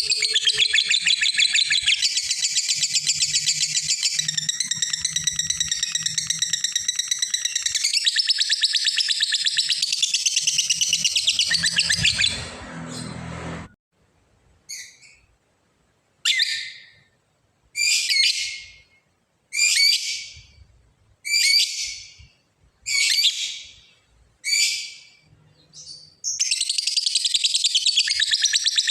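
Lovebird giving its long 'ngekek' call: a rapid, high-pitched chattering trill for about twelve seconds that fades out, then after a short pause about seven short separate calls roughly a second and a half apart, and the continuous chatter starts again near the end.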